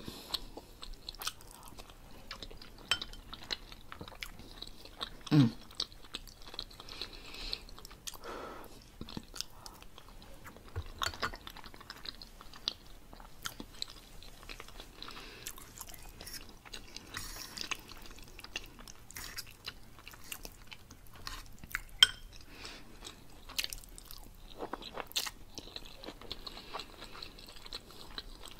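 A person chewing a mouthful of food, with many small wet mouth clicks scattered through it. About five seconds in comes a short hummed "mm".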